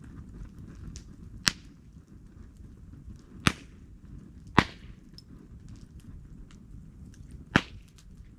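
Wood burning in a campfire: four loud, sharp pops spread through the few seconds, with faint small crackles and a low steady rumble in between.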